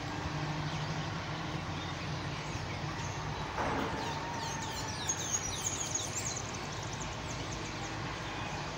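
Birds singing: a quick run of high chirps lasting a few seconds about halfway through, just after a short, louder, lower call, over a steady low background hum.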